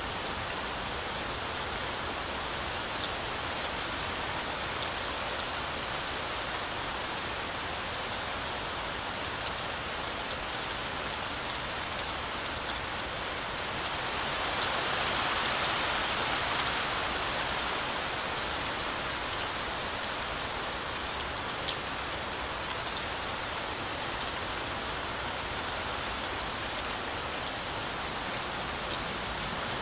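Heavy rain falling steadily, a dense even hiss with a few scattered drop ticks. It swells louder for a few seconds about halfway through, then settles back.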